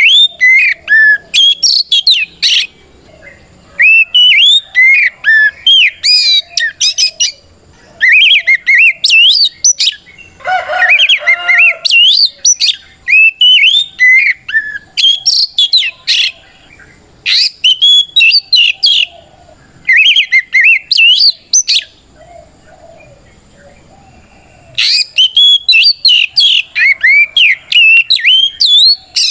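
Oriental magpie-robin (kacer) singing its loud, full challenge song that calls out rival males: bursts of rapid, varied whistled phrases separated by short pauses, with a harsher, rasping passage about ten seconds in.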